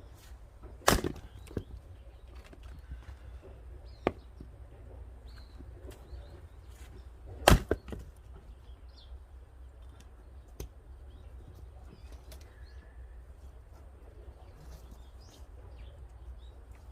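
Axe splitting firewood: two heavy strikes about six and a half seconds apart, with a few lighter knocks of wood between and after them.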